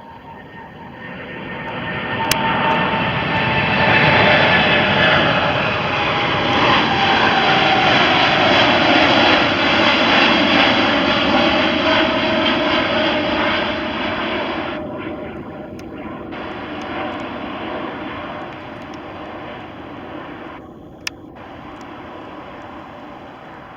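Boeing 747-8 freighter's four GEnx turbofan engines at takeoff thrust as the jet passes. The roar builds over a few seconds and holds loud, with a tone sliding down in pitch as it goes by, then fades away. A sharp click comes near the end.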